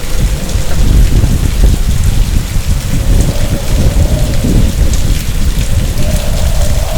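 Heavy rain pouring, with thunder rumbling low and continuously beneath it and a faint wavering tone running through.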